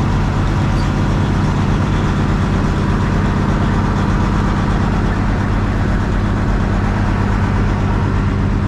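Semi truck's diesel engine idling steadily, a low even hum, with the hiss of hard rain over it.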